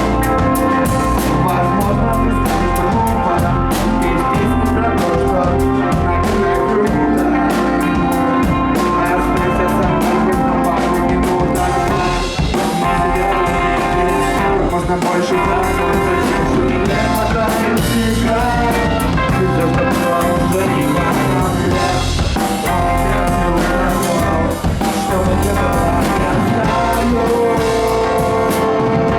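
Rock band playing a song live, with a drum kit driving it, loud and steady.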